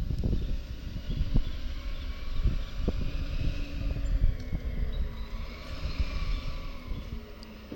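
Garbage truck running with a heavy, uneven low rumble and scattered knocks.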